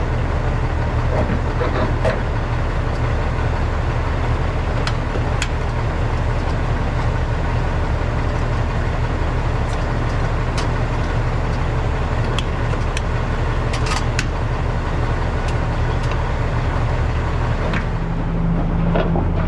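Diesel semi-truck engine running steadily, with scattered light clicks and knocks; the engine note rises near the end.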